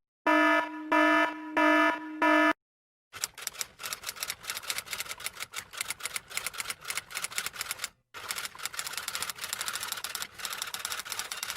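Four short electronic alarm beeps, then a rapid clatter of typing keys that runs for about eight seconds, with a brief break partway through.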